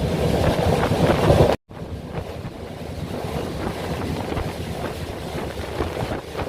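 Vaigai Superfast Express train running at speed, a steady rumble with wind noise on the microphone. It cuts off abruptly about a second and a half in and resumes a little quieter.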